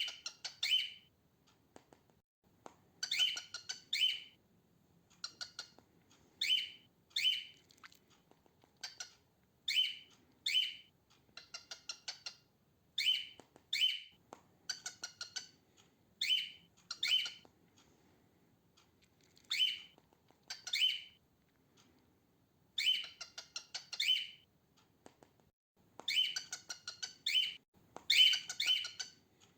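Female cockatiel calling: short, raspy chirps, mostly in pairs, repeated every two to three seconds.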